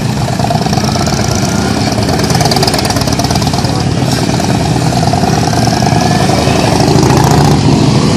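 Harley-Davidson police motorcycles' V-twin engines running at low revs, a loud, steady engine sound with small rises and falls.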